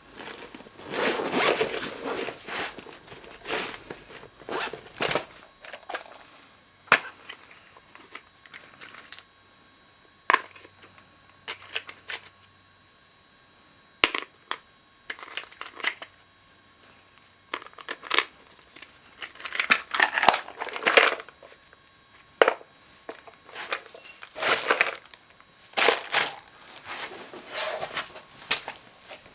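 Workshop handling noises: irregular clicks, knocks and crinkling as parts and tools are picked up and moved, in several short bursts with quiet gaps between.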